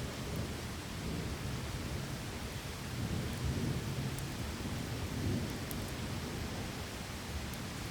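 Steady heavy rain with a low rolling rumble of distant thunder that swells twice in the middle, and a few faint sharp ticks.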